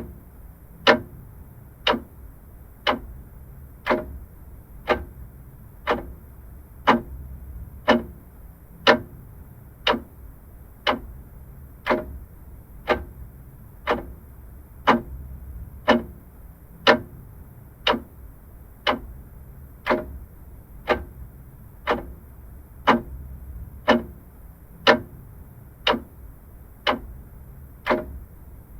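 Vintage clock ticking steadily, about one tick a second, over a faint low rumble.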